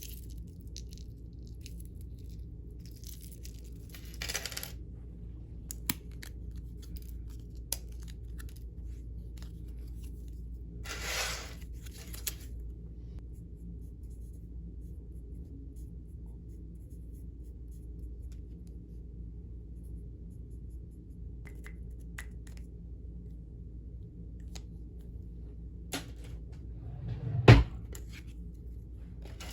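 Small handling sounds of packing a jewellery order: two brief rustles of packaging, a few light clicks, and a sharp knock near the end, the loudest sound. A faint steady low hum lies under it all.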